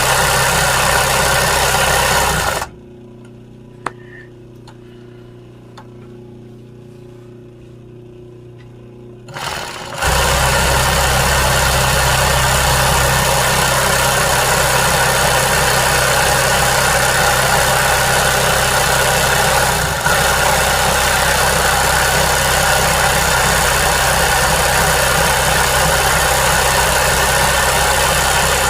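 Sewing machine running steadily while embroidering. It stops about two and a half seconds in, a single click sounds during the pause, and it starts running again at about ten seconds.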